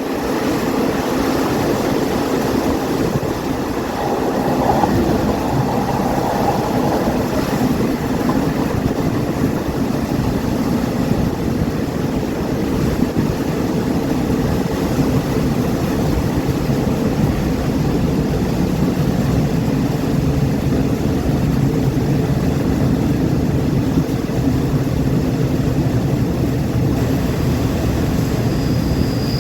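Passenger train running along the track: a steady rumble of the carriage and its wheels on the rails. A thin high tone comes in near the end.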